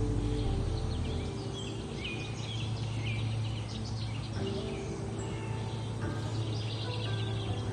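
Small birds chirping, many short high calls overlapping, over a steady low hum.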